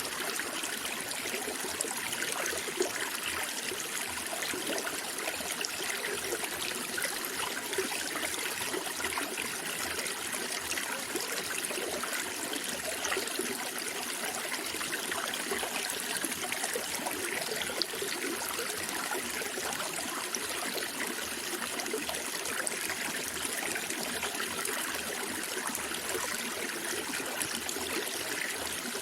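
Running water trickling and babbling steadily, like a small stream, with no pauses.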